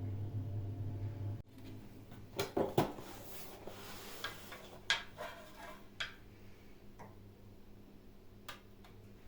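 A steady low hum that cuts off about a second and a half in. It is followed by a scattering of light clicks and knocks from small hard objects being handled, the loudest a pair of knocks near three seconds in.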